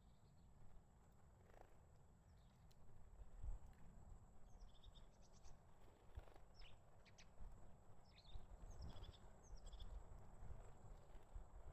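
Faint, high, thin call notes of a crested tit, given in several short clusters, over a steady low rumble.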